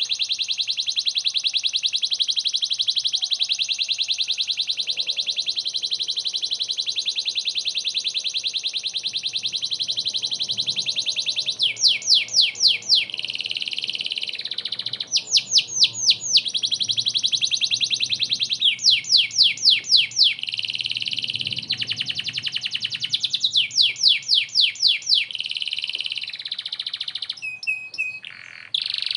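Canary in full song: a long, fast, high-pitched trill, then about every few seconds a burst of rapid sweeping notes alternating with shorter trills.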